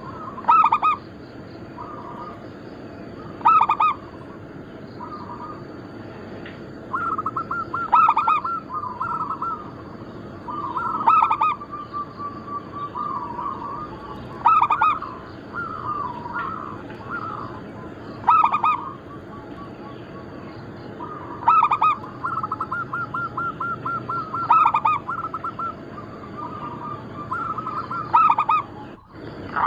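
Zebra doves (perkutut) cooing: phrases of quick, rapid coo notes, each ending in a louder, stronger note, repeating about every three to four seconds. A faint steady high tone sits behind.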